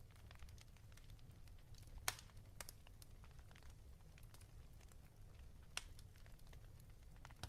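Fireplace crackling faintly: scattered pops and snaps of burning wood over a low steady rumble, the sharpest pop about two seconds in.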